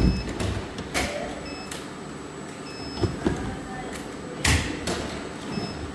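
Several sharp knocks or clunks, one at the start, one about a second in and a loud one about four and a half seconds in, over a steady mechanical background noise.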